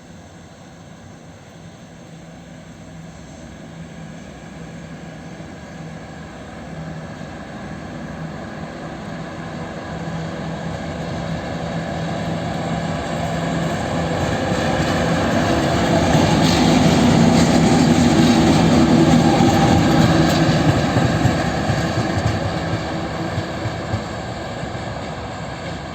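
ChME3 diesel shunting locomotive running light, its six-cylinder diesel engine droning with a steady low tone. It grows louder as it approaches, is loudest about two thirds of the way through, then fades as it moves away.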